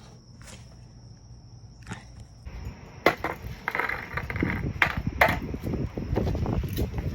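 Handling of a cardboard box and its packaging: a few faint clicks, then from about three seconds in sharp knocks with rustling and crinkling as the box is worked open.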